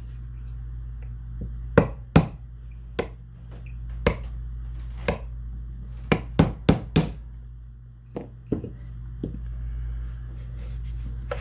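Small hammer tapping a part into a side-by-side shotgun's action during reassembly: about a dozen sharp, irregularly spaced taps, with a quick run of four in the middle and softer taps near the end.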